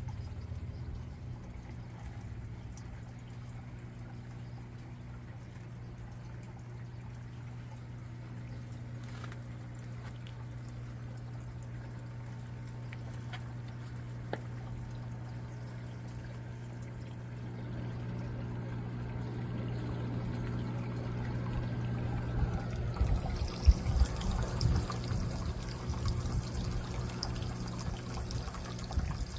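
Water pouring and trickling in an aquaponics system, over a steady low hum. It grows louder in the last ten seconds or so, with a few knocks near the end.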